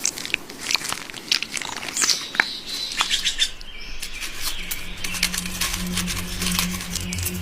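Birds chirping in short, high calls mixed with quick clicks. A low steady musical drone comes in about five seconds in.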